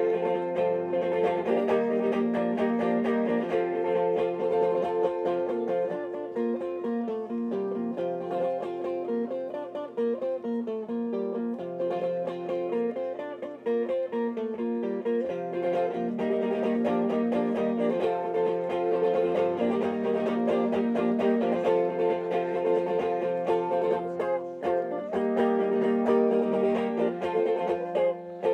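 Instrumental music on plucked string instruments, with quick, busy picking of many short notes and no singing.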